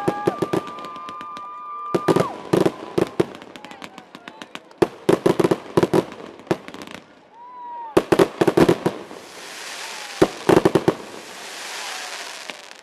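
Aerial fireworks bursting in quick clusters of bangs and crackles, about five volleys, with a whistle in the first two seconds and a long hiss near the end.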